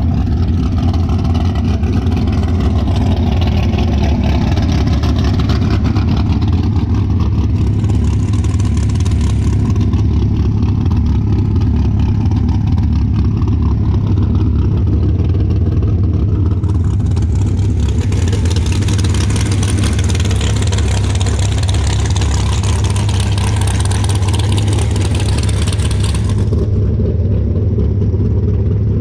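A loud car engine running steadily with a deep rumble. A hiss joins it for several seconds in the second half.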